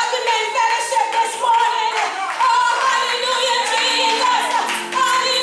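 Gospel singing with hand clapping: a voice sings a wavering melody over held accompaniment notes.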